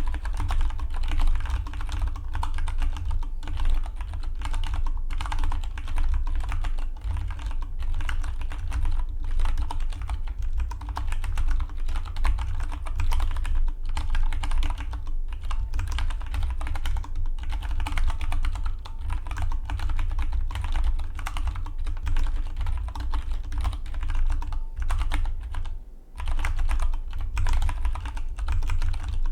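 Fast, continuous typing on a Dygma Defy split mechanical keyboard, a rapid stream of keystroke clicks with a brief pause near the end.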